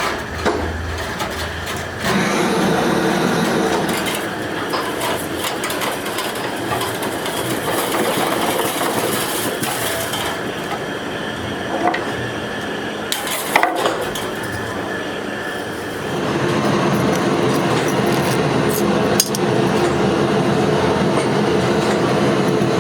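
Workshop machinery running steadily, with a few sharp metal knocks; the machine hum grows louder and fuller about two-thirds of the way through.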